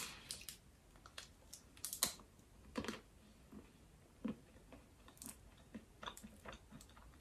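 Quiet chewing of a bite of Kinder Riegel chocolate bar, with scattered small clicks and crackles from the mouth and the foil wrapper.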